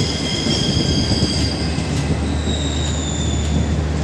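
Indian Railways Garib Rath Express coaches rolling slowly past on arrival: a steady low rumble of wheels on track, with high squealing tones from the wheels that shift in pitch about halfway through.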